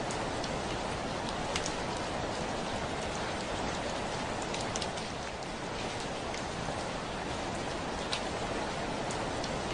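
Heavy rain falling steadily against a window, a dense even patter with a few single drops ticking sharply on the glass now and then.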